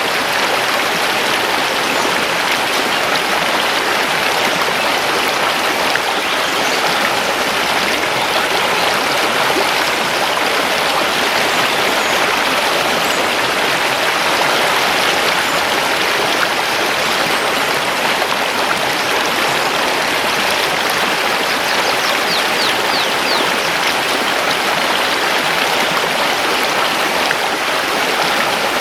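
Mountain river rushing over stones in a steady, even flow of water. A few faint, high bird chirps come through about two-thirds of the way in.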